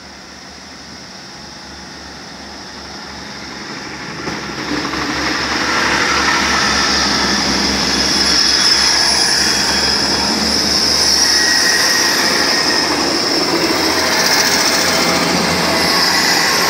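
South West Trains diesel multiple unit approaching and passing close by over a level crossing. It grows steadily louder over the first six seconds, then stays loud as the carriages rumble by on the rails.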